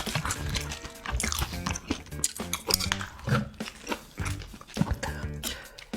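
A person chewing and biting food close to the microphone, with many short wet clicks, over background music with steady low notes.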